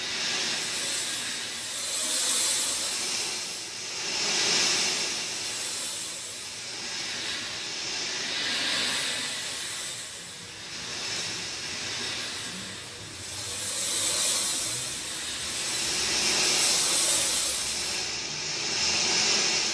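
Rain falling: a dense, even hiss that swells and eases every few seconds.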